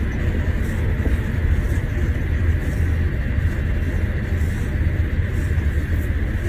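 Steady low rumble of a car heard from inside the cabin, with a faint steady high tone above it.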